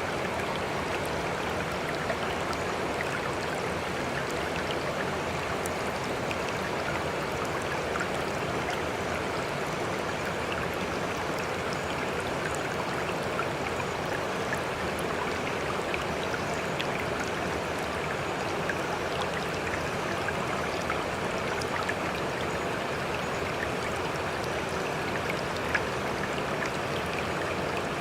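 Sea water splashing and trickling, a steady, even wash sprinkled with small droplet ticks, with no rise and fall of breaking waves.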